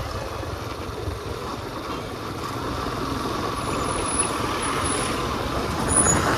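Steady rush of wind and engine noise heard from a moving motorcycle, with road traffic around it.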